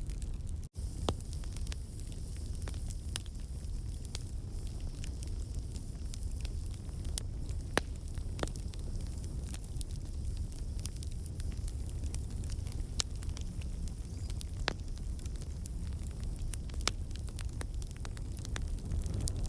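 Wood campfire burning: a steady low rumble of flames with many scattered crackles and pops from the logs, several louder snaps among them. The crackling comes from water and sap in the wood turning to steam and escaping. The sound cuts out for an instant about a second in.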